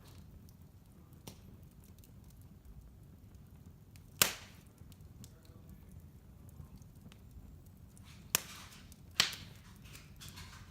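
Wood fire burning in a fireplace: a low steady hiss with scattered faint crackles and three sharp pops, one about four seconds in and two close together near the end.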